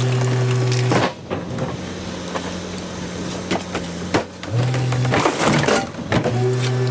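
Rear-loader garbage truck's hydraulic compactor working, a steady drone that drops away about a second in and returns near the end, with cracking and snapping of rubbish being crushed in the hopper, loudest around five to six seconds.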